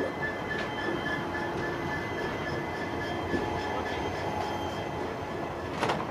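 Express passenger train running on the rails: a steady running noise with a thin, steady high tone through it. A single short clack comes near the end.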